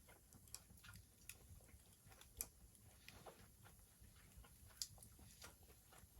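Faint campfire crackling: sparse, irregular sharp pops and clicks from burning wood, the loudest two about two and a half and five seconds in.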